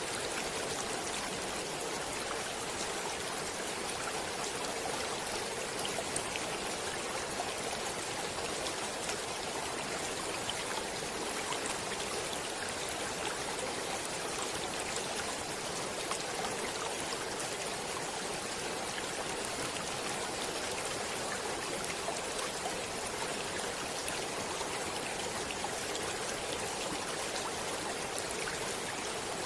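Stream water flowing steadily, an even rush with fine splashing ticks throughout.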